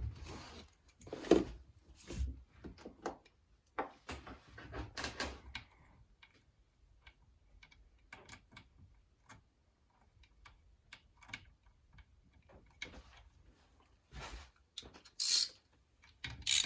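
Metal hand tools clinking and knocking, with a run of light, fast clicks from a socket ratchet as the Allen head cam gear bolts are run in.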